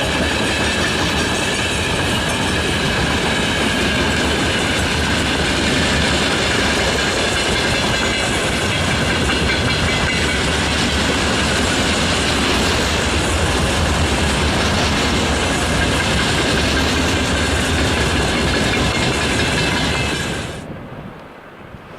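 Freight train wagons rolling past, wheels clattering over the rail joints in a steady din with a faint thin ringing above it. The sound falls away abruptly about 20 seconds in.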